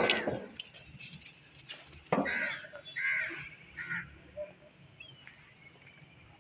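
A sharp knock right at the start, then a bird calling three times, about a second apart, from a couple of seconds in.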